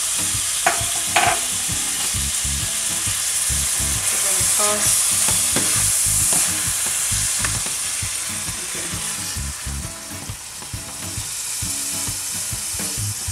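Chicken pieces sizzling in oil in a stainless steel sauté pan as a slotted spatula stirs and turns them, with a steady frying hiss. Two sharp clicks of the spatula against the pan come about a second in, and lighter scrapes and taps follow.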